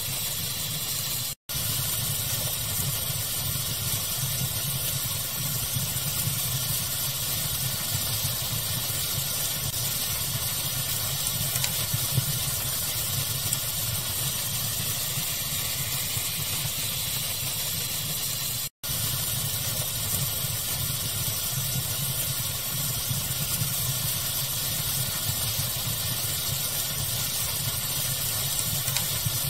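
Steady pink-noise hiss blended with a crackling fire, with small scattered pops. The sound cuts out for an instant twice, once about a second and a half in and again a little past halfway.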